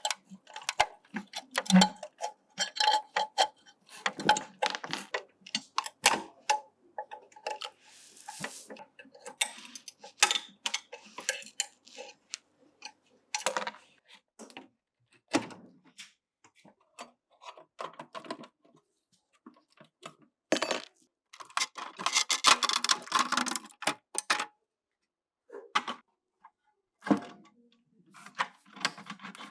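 Hand work on a small model truck: irregular clicks, taps and scrapes of small parts and hand tools, with a denser scraping spell past the middle.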